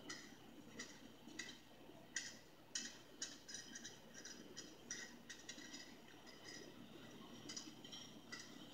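Freight train of covered hopper cars rolling past, heard faintly: a low steady rumble with irregular light metallic clicks and rattles from the wheels and cars, a few each second.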